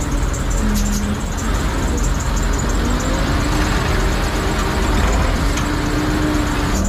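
Heavy vehicle engines running steadily, a continuous deep rumble with faint held tones that shift slightly in pitch.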